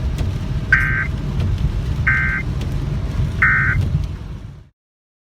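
Emergency Alert System end-of-message data tones: three short, harsh two-tone digital bursts about 1.3 seconds apart, over a steady low rumble, marking the end of a tornado warning broadcast. The sound cuts off suddenly about three-quarters of the way through.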